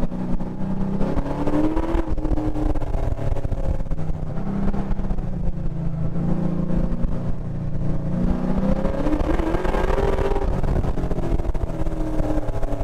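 GM LS7 7.0-litre V8 heard onboard while the car is driven hard around a course. The engine revs up and eases off between corners, climbing briefly about two seconds in and again, for longer, near the end before dropping back.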